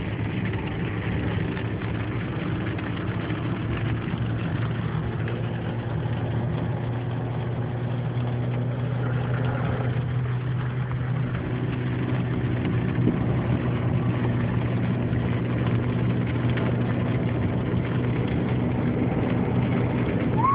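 Car engine running steadily, heard from inside the cabin, under a dense, steady patter of a hailstorm on the car's body.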